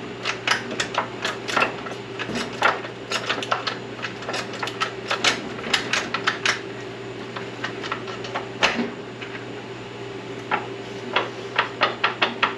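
Irregular metallic clicks and clanks from working the shifter and gears of a rebuilt SM465 four-speed transmission, over a steady low hum. The transmission is binding: second gear is locked up, from a reverse shift fork sitting behind its ring.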